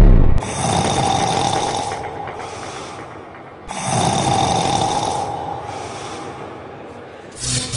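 Two long, noisy snores, one after the other, each fading out over about three seconds.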